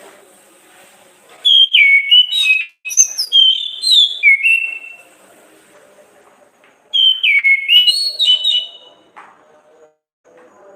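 Orange-headed thrush (Anis kembang) singing: two loud bursts of fast, gliding whistled notes, separated by a pause of about two seconds.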